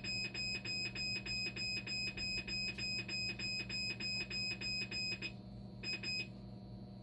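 Dialysis machine's electronic alarm beeping in a fast, even run of high tones, signalling the acid and bicarbonate pump fault. The beeping stops a little after five seconds in, sounds once more briefly, then goes quiet over a steady low machine hum.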